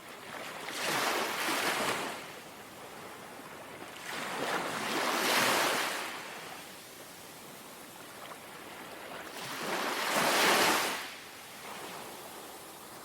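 Gentle sea waves lapping on a shore: a swell of wash breaks and recedes about every four to five seconds, three times, with a quieter hiss of water between them.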